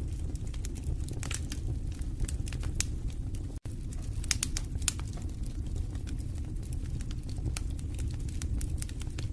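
Wood fire burning in a fireplace: a steady low rumble of flames with frequent sharp crackles and pops. The sound drops out for a split second a little over a third of the way in.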